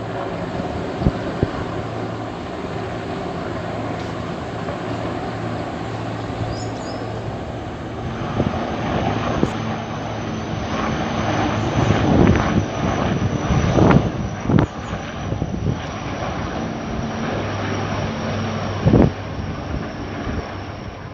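Helicopter in flight: a steady drone of engine and rotor noise, with gusts of wind buffeting the microphone several times in the second half.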